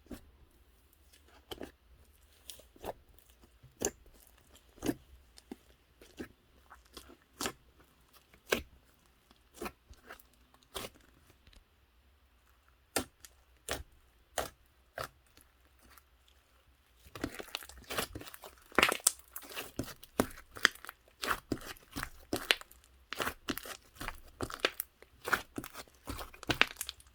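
Fluffy slime being squeezed and poked by hand, giving scattered sticky clicks and pops. About two-thirds of the way through it turns into a dense, louder run of crackling pops and clicks.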